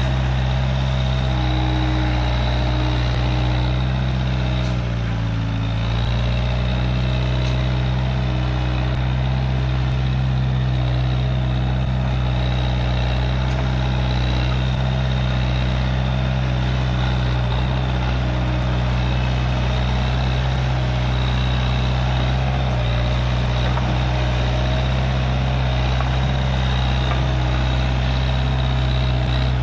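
Case 580G backhoe loader's diesel engine running steadily. Its pitch dips briefly about five seconds in, then recovers.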